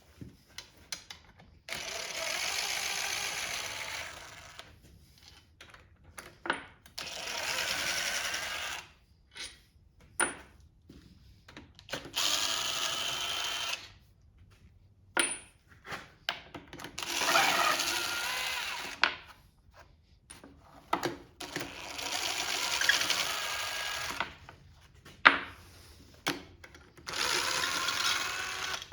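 Handheld power drill running in six short bursts of about two seconds each, roughly five seconds apart, with sharp metal clicks and knocks in between.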